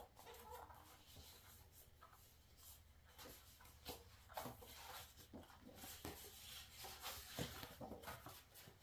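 Faint, scattered rustling and soft clicks of paper and printed cards being handled.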